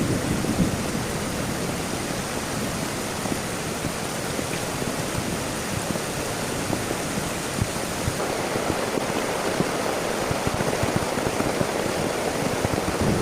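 Heavy rain falling steadily, a dense even hiss of drops, growing a little fuller about two-thirds of the way through.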